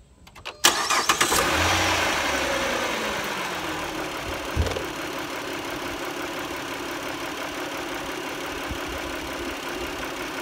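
A Dodge Journey's 3.5-litre V6 cranks briefly, catches about a second in with a flare of revs, then settles into a steady idle. The engine has just had a flush and fresh oil to cure an intermittent tick suspected to come from sludge, and it sounds pretty good.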